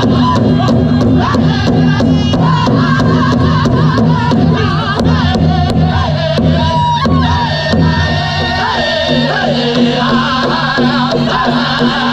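Powwow drum group singing a dance song: a large powwow drum struck in a steady beat under high-pitched group singing. Near the middle the beat stops for about two seconds while a high voice holds a note, then it comes back in.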